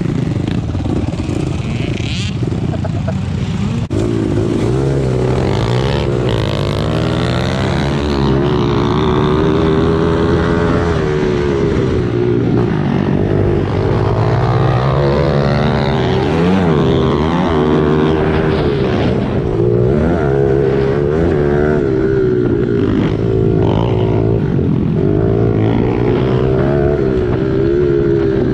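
Small single-cylinder four-stroke pit bike engine, revving up and dropping back again and again as it is ridden under varying throttle.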